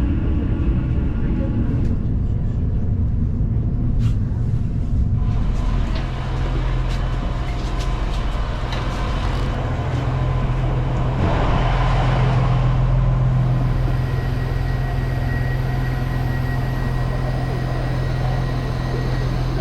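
A vehicle engine running with a steady low hum, with a scatter of short clicks and knocks between about 4 and 10 seconds in.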